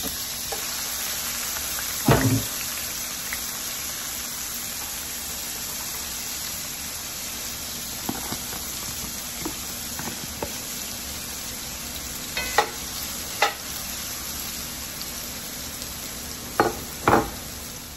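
Cubed, freshly boiled potatoes frying in hot canola oil in a cast-iron skillet: a steady sizzle, with the water still on the potatoes making the oil spit. A few sharp clicks stand out past the middle and near the end.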